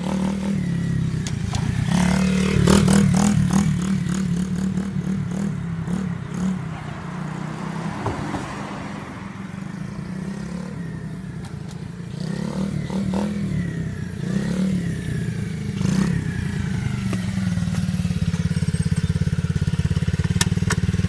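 Small dirt bike engine running and revving as the bike rides up and down the street. It is loudest about three seconds in, falls away in the middle, and builds again through the second half.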